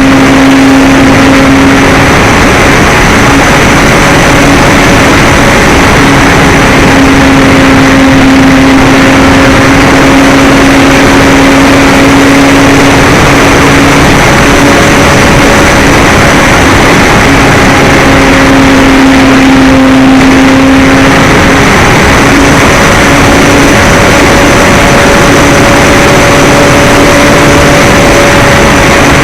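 Model airplane's motor and propeller running steadily at a near-constant pitch that wavers slightly with the throttle, loud and close over a constant rush of air noise.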